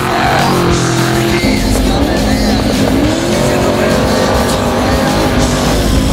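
Trophy Truck racing engine revving up and down, over loud background music.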